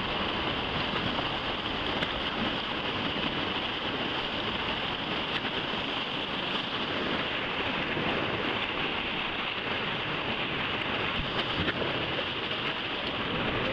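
Steady rush of river water during white-water rafting, with wind noise on the microphone.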